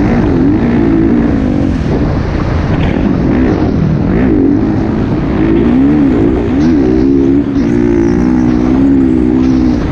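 Motocross dirt bike engine running hard, its pitch rising and falling again and again as the throttle is worked, over rough rumble and wind noise.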